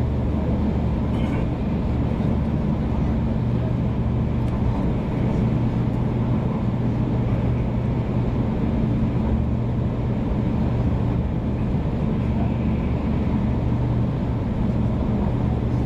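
Cabin noise inside a 500 Series Shinkansen running steadily: an even low rumble with a constant hum under it.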